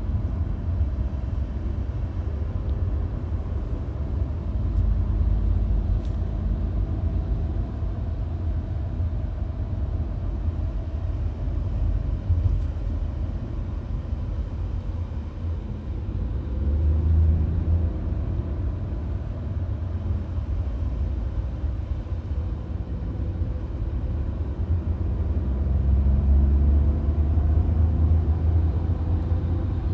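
VW Golf driving at highway speed: a steady low road and tyre rumble with a faint engine drone drifting slightly in pitch, swelling a little louder about halfway through and again near the end.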